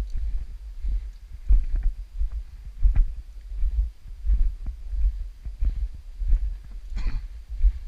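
Wind buffeting the microphone in irregular low gusts, with a few short crunches or knocks over it.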